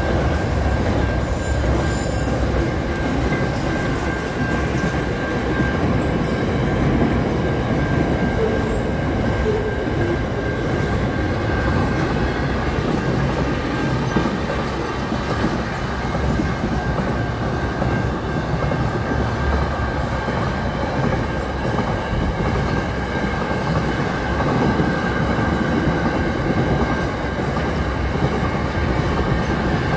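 Freight train of container wagons running past: a steady rumble of wheels on rail, with a thin, high wheel squeal held over it.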